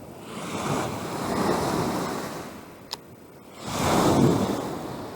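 Lake waves washing against the shore in surges that rise and fall twice, with gusty wind on the microphone. A brief sharp click about three seconds in.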